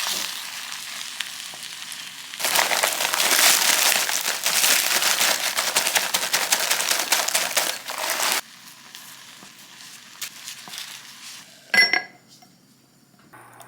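Food sizzling in a hot pan. It grows louder from about two and a half seconds in, drops off sharply about eight seconds in, and a single metallic clink of a utensil comes near the end.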